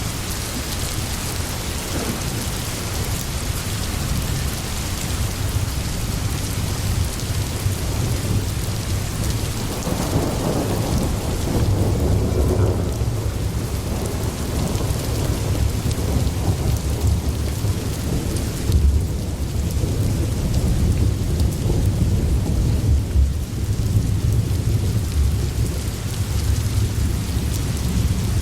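Steady rain with rolling thunder, the low rumble swelling from about ten seconds in.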